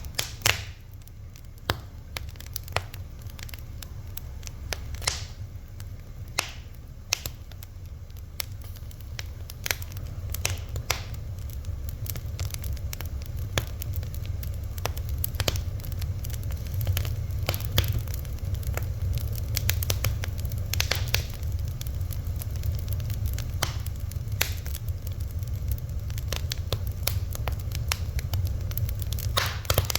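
Wood fire crackling and popping, with irregular sharp snaps over a steady low rumble of burning.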